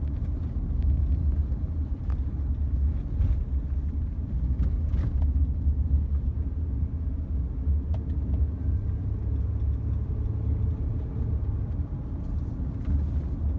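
Honda Odyssey minivan on the move: a steady low rumble of road and engine noise, with a few faint clicks.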